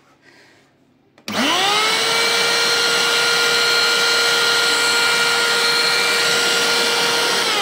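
Kärcher WD 3 wet-and-dry vacuum cleaner switched on about a second in, its motor whining quickly up to speed and then running steadily, its pitch beginning to fall at the very end as it is switched off. Freshly repaired, it runs without the abnormal vibration it had before.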